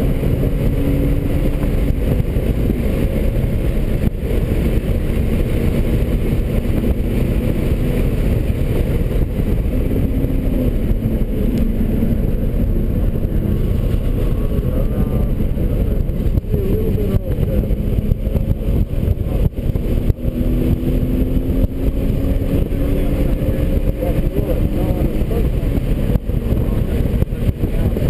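2003 BMW 330i's straight-six engine under hard track driving, heard from inside the cabin over loud road and tyre rumble. The engine note climbs slowly and then drops back as the car accelerates, lifts and shifts through the corners.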